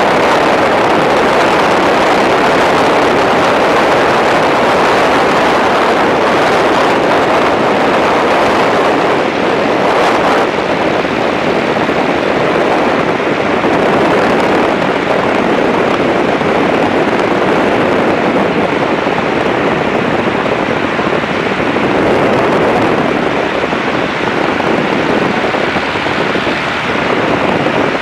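Tiger Moth biplane's engine running steadily at high power, mixed with wind rush in the open cockpit, during the takeoff and climb-out.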